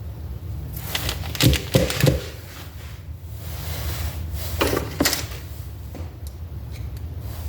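Small metal distributor parts being handled on a workbench: three sharp knocks and clinks about a second and a half in, another short clatter around five seconds, and a few faint clicks near the end, over a steady low hum.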